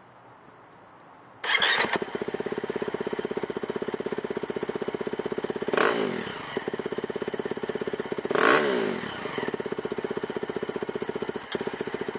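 2011 KTM 350 SX-F single-cylinder four-stroke dirt bike with an FMF exhaust starting about a second and a half in, then idling with a fast, even beat. It gets two quick throttle blips, one about six seconds in and one about eight and a half.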